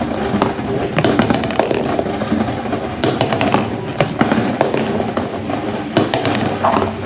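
Marbles rolling down a marble run track: a continuous rolling rumble broken by frequent sharp clicks as the marbles knock against the track and against each other.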